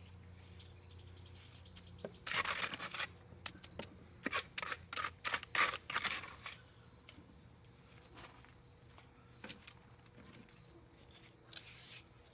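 Wet stucco being scraped and spread by hand tool over a chicken-wire base: a run of short, rough scraping strokes, bunched together from about two seconds in to about seven seconds in, then a few faint ones.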